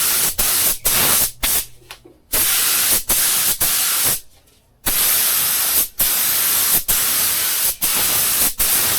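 Paint spray gun hissing in short repeated passes as clear coat is sprayed, each pass cut by a brief release of the trigger, with two longer pauses, about two seconds in and about four and a half seconds in.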